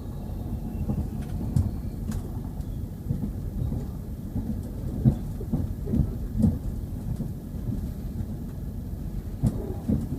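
Interior of a Class 170 Turbostar diesel multiple unit on the move: a steady low rumble of the underfloor diesel engine and running gear, with irregular knocks and thumps from the wheels over the track.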